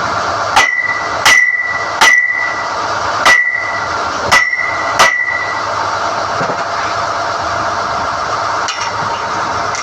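Six sharp, ringing metal-on-metal strikes in the first five seconds, typical of a hammer knocking on steel NQ drill rod. Under them, the SDH-1600 drill rig runs steadily.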